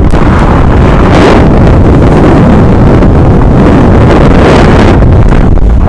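Heavy wind buffeting the microphone while skiing, a loud, continuous rumbling roar, with two brighter hissing surges, about a second in and about four and a half seconds in.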